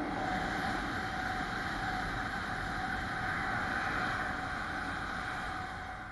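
Two Class 395 high-speed electric trains passing each other at speed: a steady rush of wheels and air with a faint held hum, fading in the last second.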